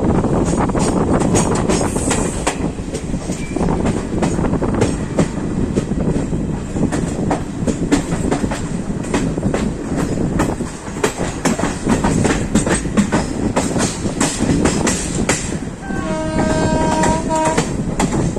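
Train running on the rails, its wheels clicking steadily over rail joints and through points. Near the end a train horn sounds for about a second and a half.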